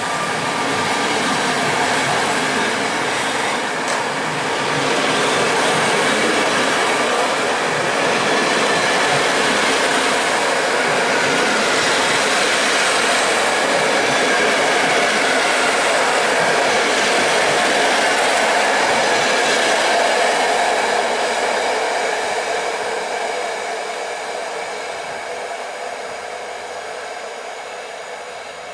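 Passenger train coaches rolling past close by, their wheels on the rails making a loud, steady rush. From about three-quarters of the way through it fades as the last coach moves off.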